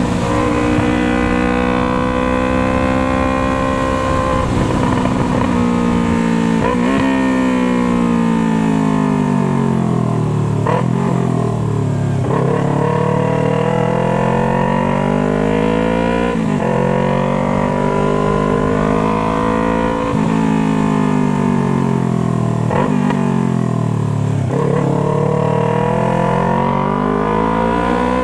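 Yamaha MT-03's 321 cc parallel-twin engine with a Jeskap exhaust, ridden hard: the exhaust note climbs in pitch through the gears with short breaks at each shift, then falls away as the bike slows, twice, before rising again. Wind rumbles on the microphone underneath.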